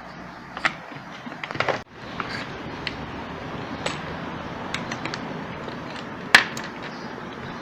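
Scattered clicks and taps of small parts being handled on an opened electric drill, with a quick cluster of clicks near two seconds in and one sharp click about six seconds in.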